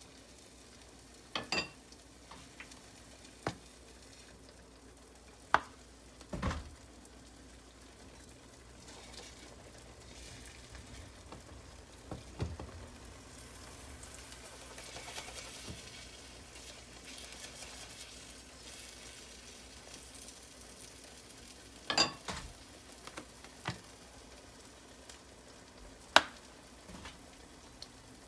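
Beaten egg with chopped onion and bell pepper frying in a nonstick pan with a low, steady sizzle. A wooden spoon knocks and scrapes against the pan now and then, with the sharpest knocks near the start, around six seconds in, and twice near the end.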